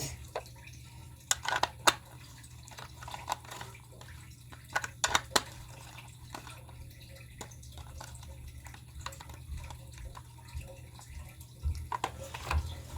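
Scattered light clicks and taps from a toy bus being handled, over a low steady hum.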